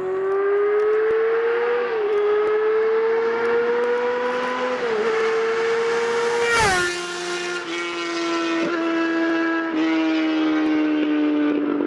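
Yamaha R6 inline-four sportbike accelerating hard at high revs, its engine note climbing with two quick upshifts, then passing close by about six and a half seconds in with a sudden drop in pitch. It carries on with several more quick upshifts as it pulls away.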